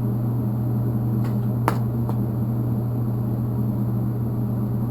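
Steady low electrical hum of an Eastwood TIG 200 welder, with a few sharp clicks about a second and a half in.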